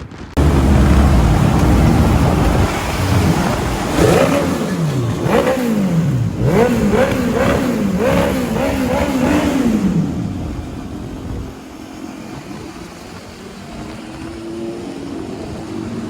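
First-generation Suzuki Hayabusa inline-four through a custom-made exhaust, revving hard. From about four seconds in the engine note climbs and drops over and over, about twice a second, then it settles to a quieter, steadier run near the end.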